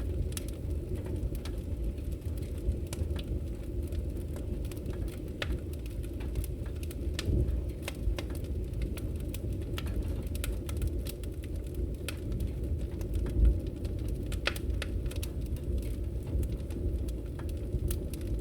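Firewood burning: a steady low rumble of flames with frequent small crackles and pops, one louder pop about 13 seconds in.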